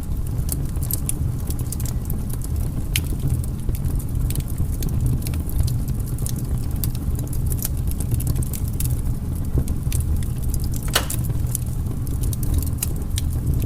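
Firewood burning: constant crackling and snapping over a steady low rumble, with louder pops about three seconds in and again about eleven seconds in.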